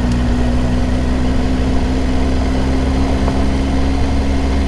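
Triumph Tiger 800 XRx motorcycle's three-cylinder engine running at a steady, even pitch.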